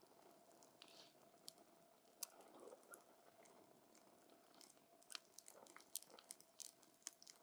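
Faint crackling of a wood campfire: scattered sharp pops and snaps from the burning wood over a low hiss, coming more often in the last two seconds or so.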